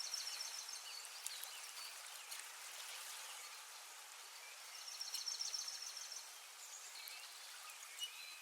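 Gently flowing river with birds chirping: a steady, faint hiss of running water, with a rapid bird trill about five seconds in and a few short chirps near the end.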